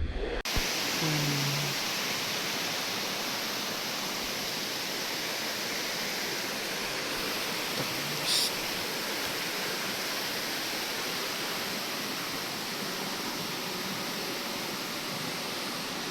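Steady rush of flowing water in a forest stream or waterfall, an even hiss without pauses that starts abruptly about half a second in.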